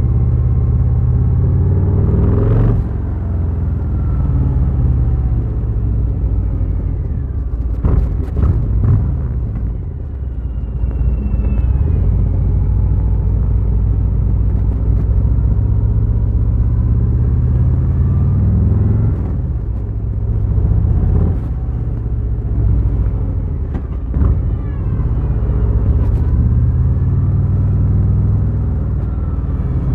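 Harley-Davidson Fat Boy's V-twin engine pulling under way. The engine note breaks and then climbs again several times as the rider changes gear.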